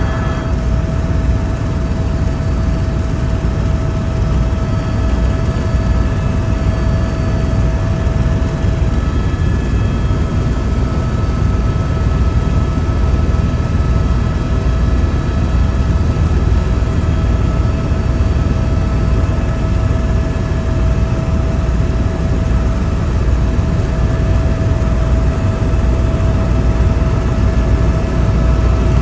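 Helicopter in flight, heard from inside the cabin: a loud, steady low rumble with a few steady tones above it.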